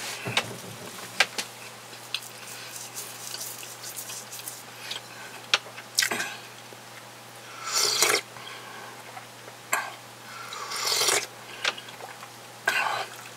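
Close-miked eating sounds: chewing of a buttered sausage sandwich, with wet mouth clicks and smacks, and several short rushing bursts in the second half, over a faint steady hum.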